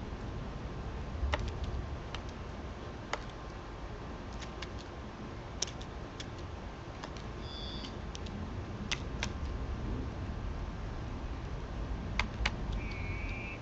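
Irregular sharp clicks and taps, a dozen or so spread out, typical of birds and squirrels pecking and handling seed and nuts at a feeding spot, over a steady low outdoor rumble. A short high bird call comes about halfway through and a brief warbling call near the end.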